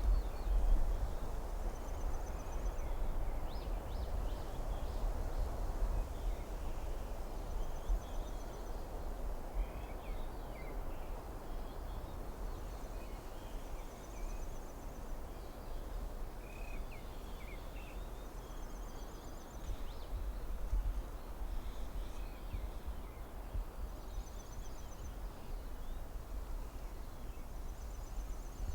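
Forest ambience: a steady rushing hiss over a low wind rumble, with scattered bird chirps and a short, high buzzing trill that repeats every few seconds.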